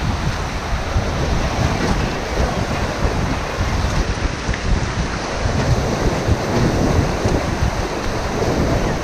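Steady rush of river water, with wind buffeting the head-mounted GoPro's microphone in a low rumble.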